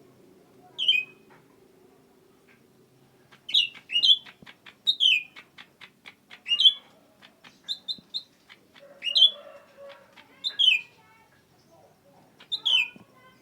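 Cucak ranting songbird calling: loud, sharp down-slurred notes repeated every second or two, with a run of quick dry ticks between them.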